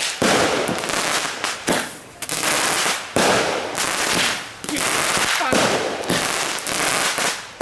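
Consumer fireworks going off in a quick series of sudden, noisy crackling bursts. Each burst lasts about a second, and they come roughly every one and a half seconds.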